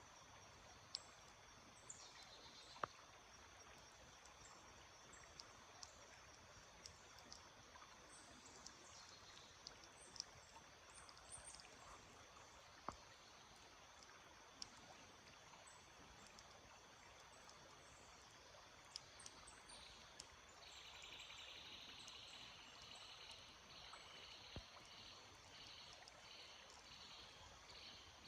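Faint, steady rush of a stream with scattered short, high bird chirps and a few sharp clicks. About two-thirds of the way in, a fast, repeated high trill starts and carries on to the end.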